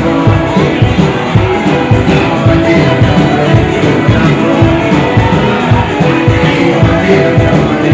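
Live band music with a steady beat, bass and guitar lines, played loud through a PA system.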